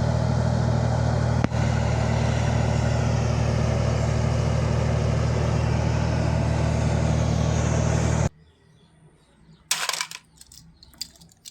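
Bulldozer engine sound: a heavy engine running steadily, which cuts off abruptly about eight seconds in. A brief scuffing noise follows near the end.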